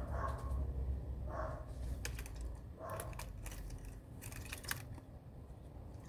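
Three short bird calls about a second and a half apart, mixed with scattered sharp clicks and taps, over a low rumble that weakens partway through.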